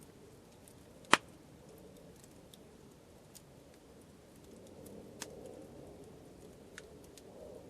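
Wood campfire crackling, with scattered faint snaps and one sharp, loud pop about a second in.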